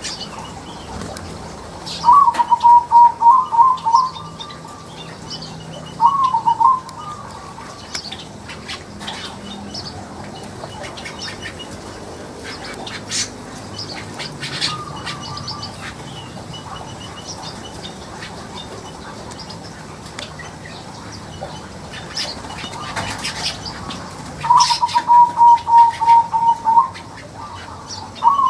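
Aviary birds, including weaver birds, chirping high and thin with short wing flutters. Twice, about two seconds in and again near the end, a bird gives a loud, two-second run of rapid, even, pulsed notes at one pitch, with a shorter burst of the same a few seconds after the first.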